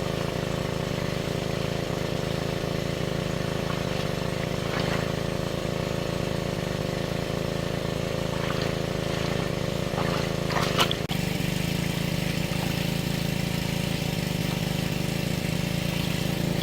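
A small engine running steadily at an even speed, with a few faint brief clicks a little past the middle.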